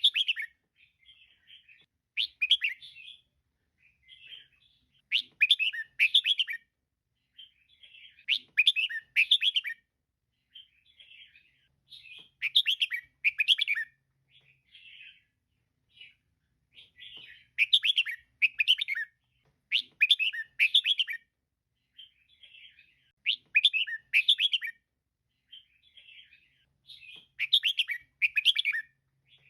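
Female red-whiskered bulbul calling: short clusters of quick, bright chirps every two to three seconds, louder phrases alternating with softer chattering ones.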